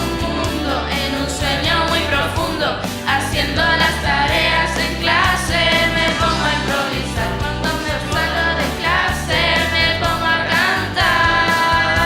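A song with sung vocals over a band backing with bass and a steady drum beat.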